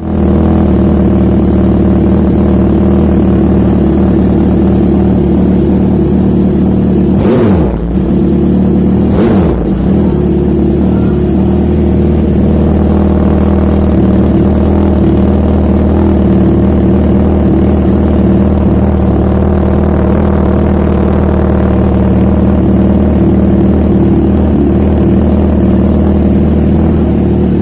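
Suzuki GSX-R1000 inline-four engine running steadily through its exhaust, with two brief dips in pitch about seven and nine seconds in.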